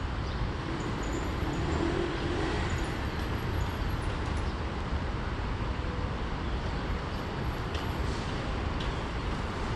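Steady rumble of road traffic, with a few faint high chirps now and then.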